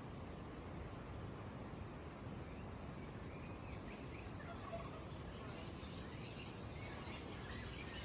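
Steady high-pitched cricket trill with faint, scattered bird chirps over a low background hum of noise.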